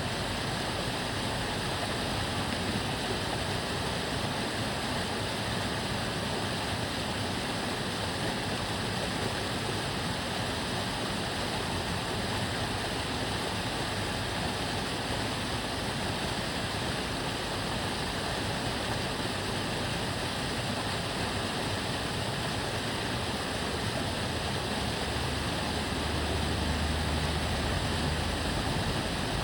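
Steady rushing and babbling of water flowing along the Tamagawa Jōsui aqueduct channel. A low rumble of a passing vehicle swells in under it near the end.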